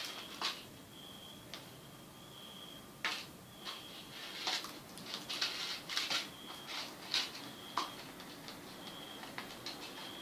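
Irregular clicks, taps and rustles of hands handling a netbook's plastic case and small parts during reassembly, with a few louder knocks scattered through.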